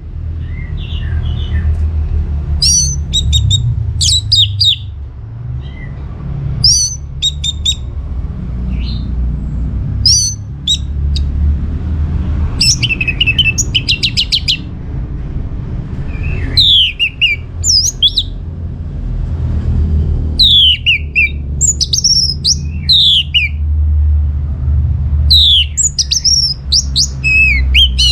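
Orange-headed thrush singing: bursts of varied high whistled phrases with falling sweeps, broken by short pauses, and a rapid buzzy trill about halfway through. A steady low rumble runs underneath.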